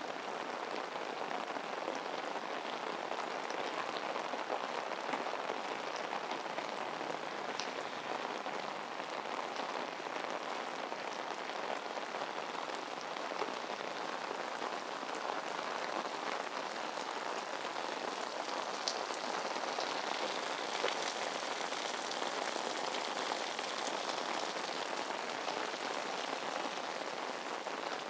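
Heavy tropical rain pouring down steadily: an even hiss, with a few sharper drop ticks now and then.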